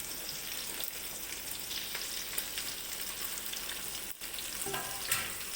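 Cubed onion and green chillies sizzling and crackling in hot oil in a kadai.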